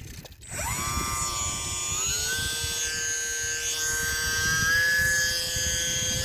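Electric motor and propeller of an E-flite UMX Turbo Timber RC plane spooling up to a steady whine: it starts about half a second in, rises quickly, then steps up in pitch twice as the throttle is advanced.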